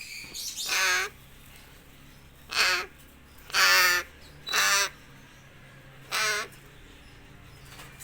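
A bird giving five short, harsh, cawing calls, spaced a second or more apart.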